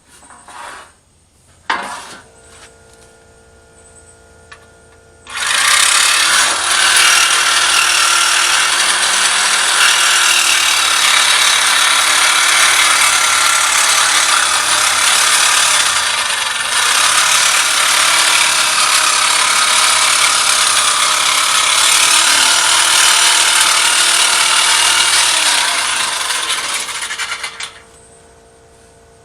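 A handheld electric power tool starts about five seconds in and runs loud and steady for about twenty seconds, its motor pitch sagging briefly under load, then stops. Before it starts there is a single sharp click.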